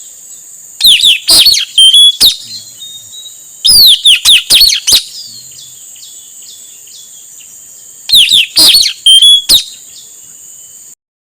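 Male blue-rumped parrot (nuri tanau, puling) calling: three loud bursts of shrill, high-pitched falling chirps, each a rapid string of several notes, about three to four seconds apart. A steady high-pitched whine runs underneath, and the sound cuts off abruptly just before the end.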